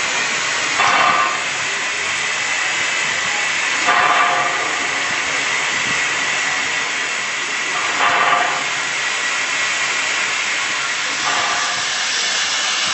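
SAR 207 steam locomotive hissing steam steadily, with a louder puff about every three to four seconds.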